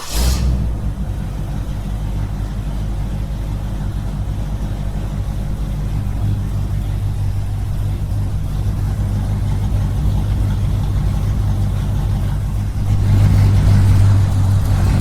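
Small engine running steadily, a low even hum that gets louder for a moment near the end.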